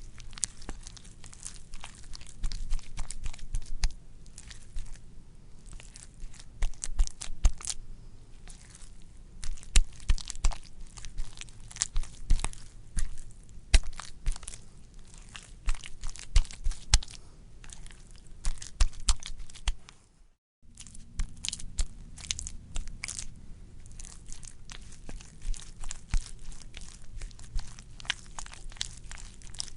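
Wet, squishy squelching made up of dense, irregular crackling clicks, with a brief break about twenty seconds in.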